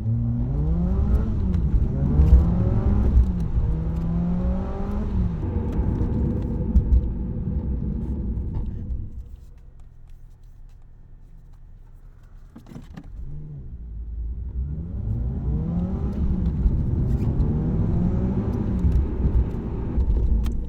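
Car exhaust under hard acceleration, the engine note climbing and dropping back several times as it shifts up through the gears for about nine seconds. It falls to a quieter run for a few seconds, then a second pull through the gears follows.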